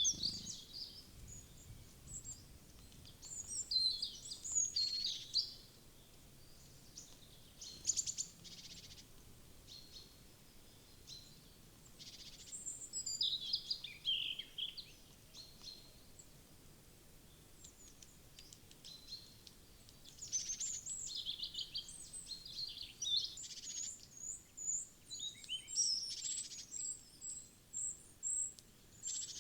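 Wild woodland birds at a feeder calling and singing: high chirps and short song phrases come in several bouts, busiest near the start and from about two-thirds of the way through, ending with a run of short, evenly spaced high notes.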